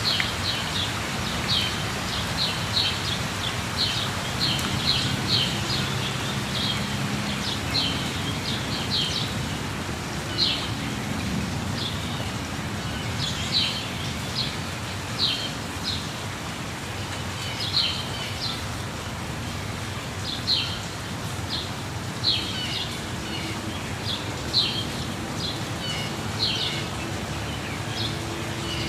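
Steady rush of falling water from a waterfall, with a bird repeating short, high chirps one or two times a second; the chirps are the loudest sounds.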